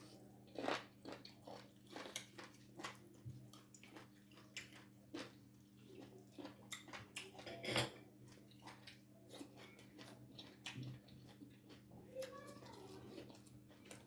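Eating sounds: chewing and gnawing on boiled bones with soup and ugali, a string of short wet clicks and smacks, the loudest about eight seconds in. A steady low hum runs underneath.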